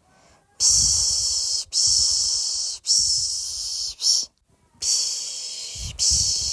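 A person shushing a baby to sleep with repeated 'pşşş' ('piş piş') hisses, each about a second long, one after another with only brief breaks. There is a short 'sh' and a pause of about half a second near the start and again about four seconds in.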